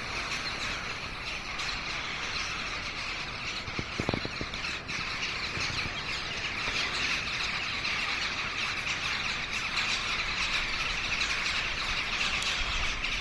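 A large flock of jackdaws and crows calling all at once: a dense, steady chatter of many overlapping calls.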